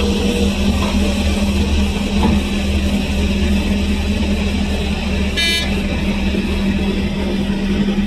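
Heavy engine of mining machinery running steadily with a constant low drone, and one short high-pitched toot about five and a half seconds in.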